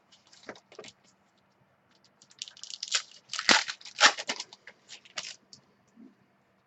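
A trading card pack wrapper being torn open and crinkled by hand: scattered rustles, then a dense run of sharp crackling tears about two to five seconds in.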